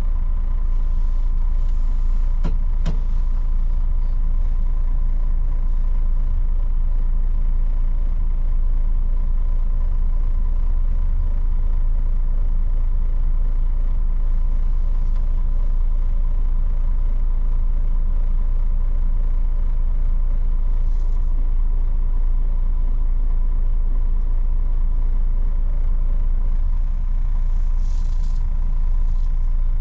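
Old Mercedes truck's diesel engine running steadily with a heavy low rumble and a faint steady whine, heard from inside the cab. Short hisses come a few times: about two seconds in, midway, and near the end.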